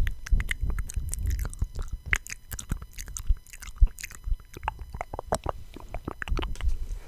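Close-miked ASMR mouth sounds: rapid, irregular wet clicks and smacks of lips and tongue, with low muffled thumps beneath.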